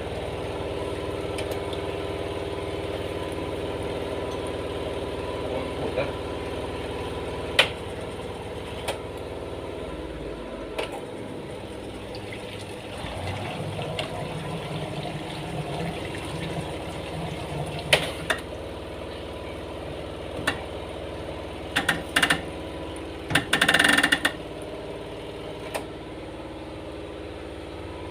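A steady mechanical hum with several pitches, which shifts about ten seconds in, broken by scattered sharp clicks and knocks and a short run of clattering near the end.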